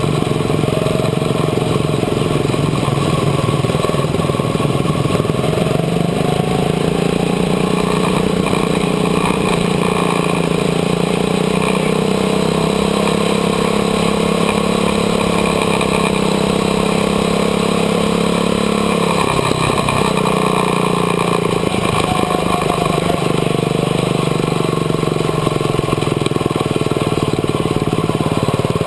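Quarter midget race car's small engine running at low speed, heard from a camera mounted on the car. Its note climbs slowly, then drops off about two-thirds of the way through as the car slows.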